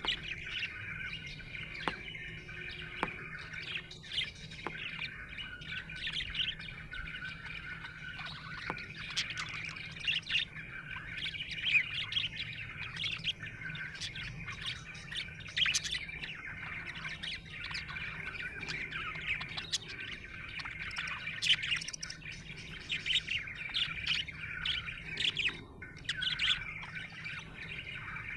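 Budgerigar (budgie) chattering and warbling without a break, with many short sharp chirps over the continuous warble: the contented chatter of a happy budgie.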